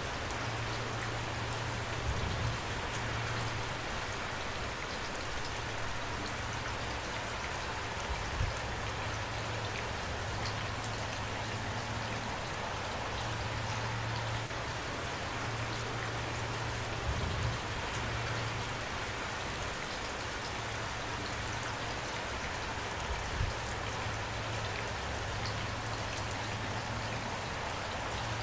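Steady rain falling, with a low rumble under it that comes and goes and a few brief louder taps.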